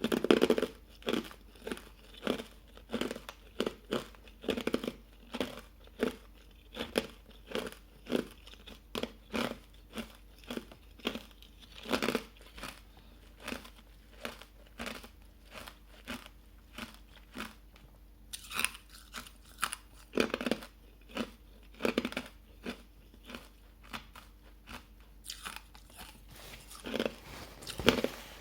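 Hard ice coated in matcha powder being bitten and chewed close to the microphone: a steady rhythm of short crunches, about two a second, with a few louder bites now and then.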